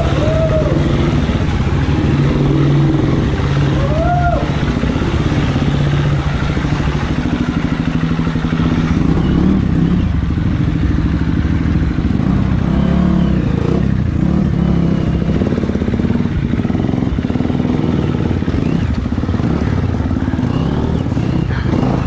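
Motorcycle engine running at low, uneven speed, its pitch rising and falling as the throttle is worked, with some clatter.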